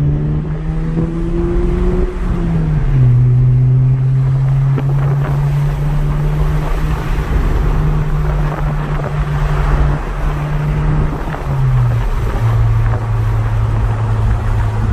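Muffler-deleted 2019 Honda Civic Sport's four-cylinder exhaust running under way: the note climbs for the first two seconds, drops sharply, holds steady, and drops again near the end.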